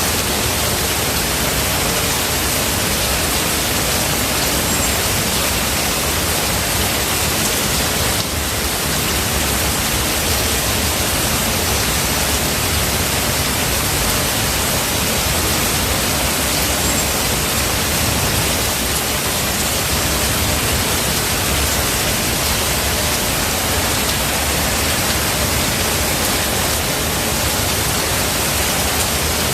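Steady rain, an even, unbroken hiss with no single drops standing out; a low rumble of thunder begins to swell near the end.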